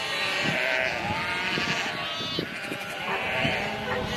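Several sheep bleating, their calls overlapping one another continuously.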